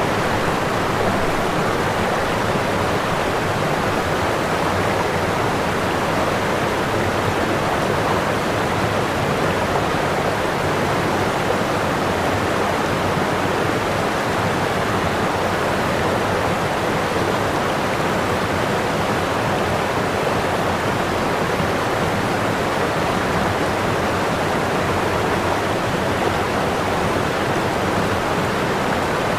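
Waterfall: whitewater pouring over a falls in a steady, even rush with no breaks or changes.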